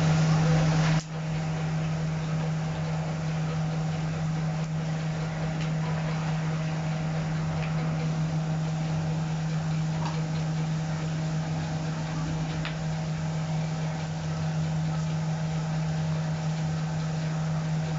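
A steady low machine hum with a constant background hiss, like a kitchen appliance or fan running. A louder layer of noise cuts off about a second in, and a few faint ticks come through later.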